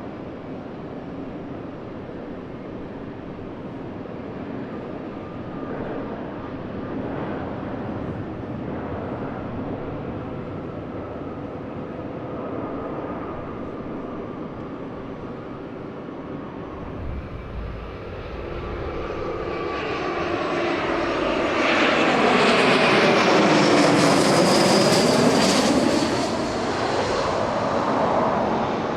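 Jet airliner engines running in the background, then building as the aircraft passes close by. The sound is loudest about three-quarters of the way through, with a sweeping shift in pitch as it goes past, and fades near the end.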